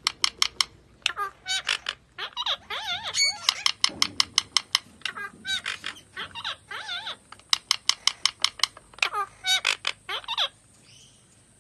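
A parrot giving a rapid run of short, shrill chirps and squawks with wavering pitch, many in quick succession, stopping about ten seconds in.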